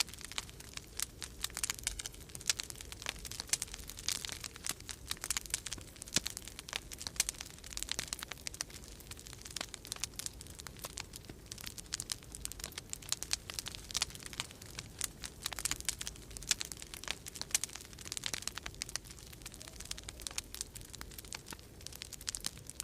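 Wood fire crackling in a fireplace, a dense stream of irregular pops and snaps, over a steady low rumble of winter storm wind.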